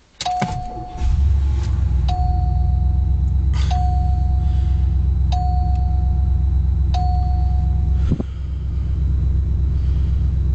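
1986 Cadillac Fleetwood Brougham V8 starting instantly on a brief crank, then running steadily. Over the engine the dashboard warning chime dings five times, about every second and a half, and stops with a click about eight seconds in.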